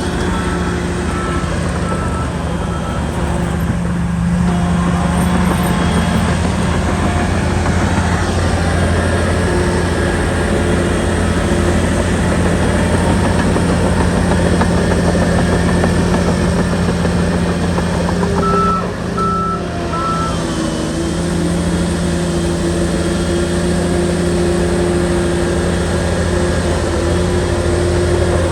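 Shantui bulldozer's diesel engine running steadily under load while pushing soil. A reversing alarm beeps a few times near the start and again briefly about two-thirds through.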